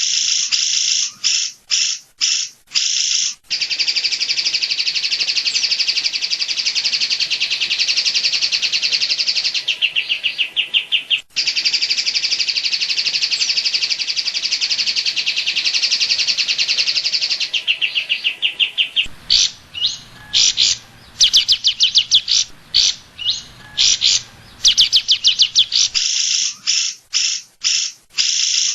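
Cucak ijo (leafbird) singing loud, rapid 'tembakan' bursts in the cililin style, short machine-gun runs of sharp high notes. One long unbroken trill runs for about fourteen seconds before the song breaks into choppy phrases again.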